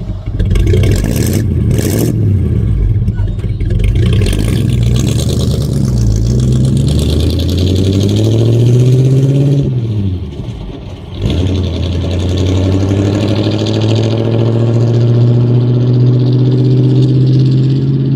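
1950 Ford F1's flathead V8 (8BA) running and pulling away. The engine note climbs, drops back about ten seconds in, then climbs again and holds steady.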